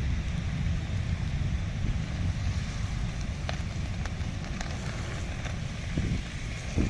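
Jet airliner engines giving a steady low rumble of jet blast, with wind buffeting the microphone.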